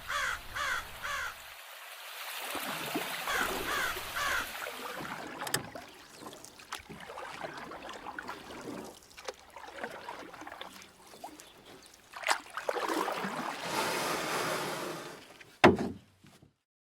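A bird calling in short runs of about four repeated notes, twice, over the steady wash of river water. Scattered knocks are heard, with a sharp loud one near the end, and then the sound cuts off.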